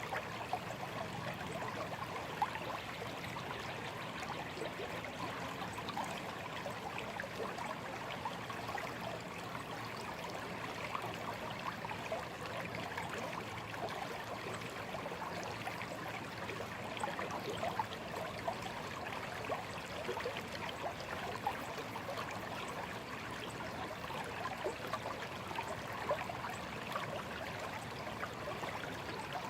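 Shallow stream running and trickling steadily, a dense patter of small splashes and gurgles.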